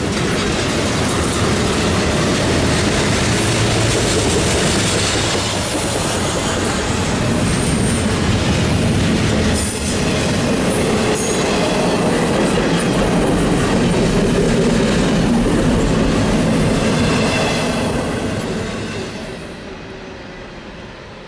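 Union Pacific intermodal freight train rolling past, with steady wheel-on-rail noise from the cars. It fades away over the last few seconds.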